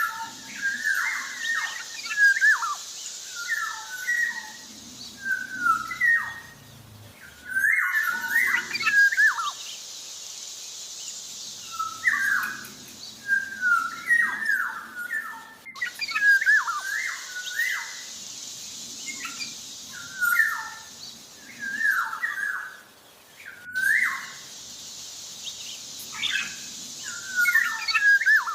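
Black-naped oriole (kepodang) singing busily: quick clusters of short, sliding whistled notes, phrase after phrase, over a steady high hiss. The same stretch of song repeats about every eight seconds, each time after a brief break.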